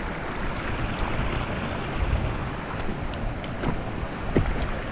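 Steady rushing of flowing water, with a few faint knocks near the end.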